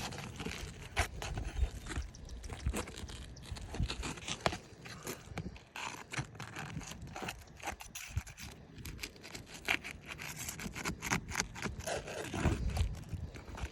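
Asphalt roof shingles being worked loose and lifted apart by hand and tool: irregular scraping, rubbing and sharp cracking clicks. The shingles are brittle, and their mat breaks as they are lifted.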